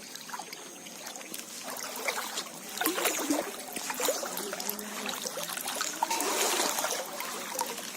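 Floodwater splashing and trickling, with many small irregular splashes and knocks that grow louder about halfway through.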